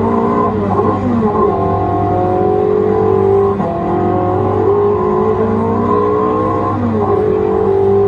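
Kiddie ride loudspeaker playing a recorded rally-car engine sound effect. The engine note runs steadily, with a pitch drop and climb like a gear change about three times.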